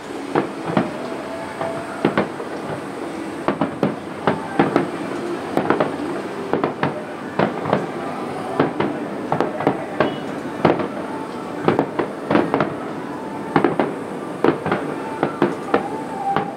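Aerial firework shells bursting in a dense barrage: several sharp bangs a second over a continuous rumble of crackling and distant reports.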